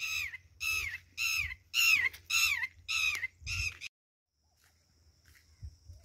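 A bird calling loudly and repeatedly: about seven sharp calls, each falling slightly in pitch, roughly two a second. They cut off suddenly about two thirds of the way in, leaving a faint steady high-pitched hum and a few soft footsteps on a dirt track near the end.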